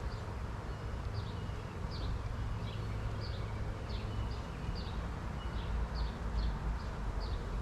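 Honeybees buzzing as a steady low hum around a newly stocked hive. A bird chirps repeatedly in the background, short high notes about twice a second.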